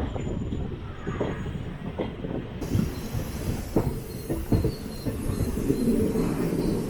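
A DEMU train's wheels rumbling and knocking over rail joints and points, in irregular clacks, as it runs into a junction station yard. The rumble grows heavier near the end.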